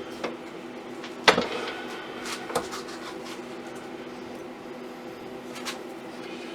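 Scattered clicks and knocks as the lathe's tailstock live centre is set into a new off-centre mark on the lure blank, one sharp knock about a second in the loudest, over a steady hum.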